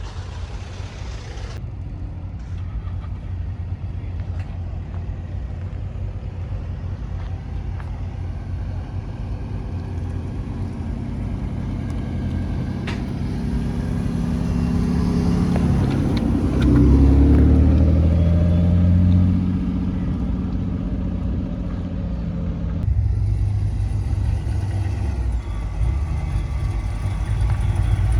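Car engines running. One car drives close by, its engine growing louder to a peak about two-thirds of the way through, then fading.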